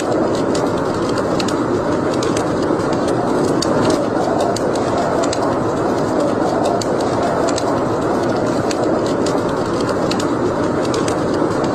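Wood fire burning in a fireplace: a steady rush of flames with frequent small, irregular crackles and pops.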